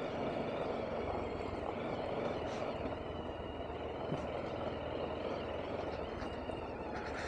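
BMW G310RR motorcycle's single-cylinder engine running at a fairly steady pace, with road noise.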